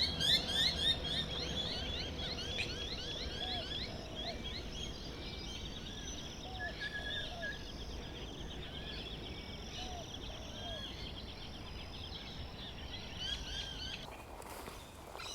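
Wetland birds calling: a dense run of short, rapid chirps, busiest in the first few seconds and thinning out, with a few lower, deeper call notes scattered through, over a steady low rumble.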